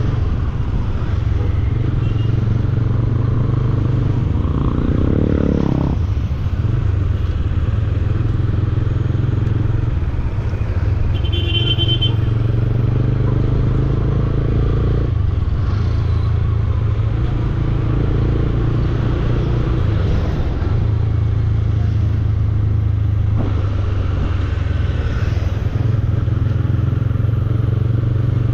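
Bajaj Dominar 400's single-cylinder engine running steadily under way. Its note rises and falls briefly about five seconds in, and a short high beep sounds about twelve seconds in.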